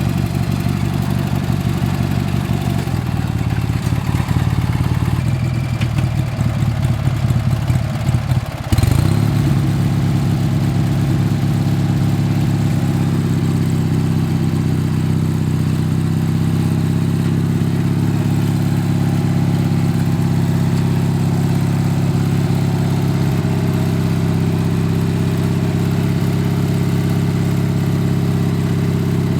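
Craftsman LT4000 riding lawn tractor's engine running, uneven for a few seconds, dipping briefly about nine seconds in, then running steadily.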